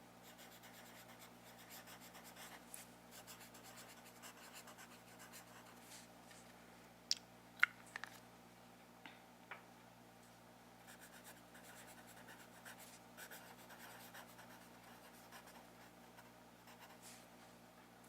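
Quiet, soft scratching and rubbing sounds of hands working on a surface, broken by about five sharp clicks between roughly seven and ten seconds in.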